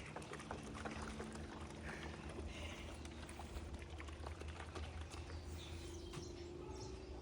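Water pouring from a watering can, a continuous splashing trickle with a faint steady hum underneath.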